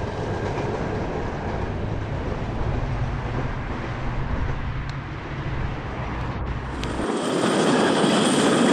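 Tourist train running away along the track, a steady low rumble as it recedes. About seven seconds in, the sound cuts to a louder, steady rushing noise and the low rumble drops away.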